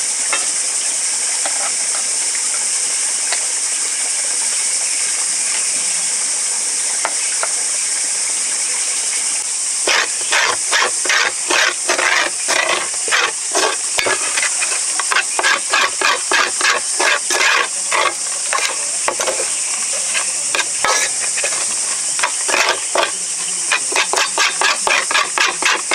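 Food frying and sizzling in a pan. From about halfway through, a utensil stirs and scrapes the pan in quick, repeated strokes.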